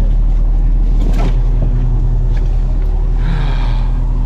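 A fishing boat's engine running steadily with a low, even drone. There is a knock about a second in and a brief faint call a little past three seconds.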